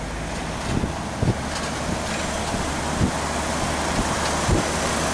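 BharatBenz 14-wheeler tanker truck running on the road: a steady engine drone and tyre noise, with a few brief low thumps.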